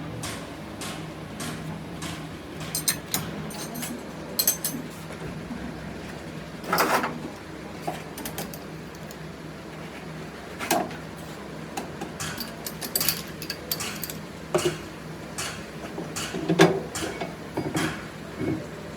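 Scattered metal clinks and knocks of parts and tools being handled, irregular and a few seconds apart, over a steady low hum.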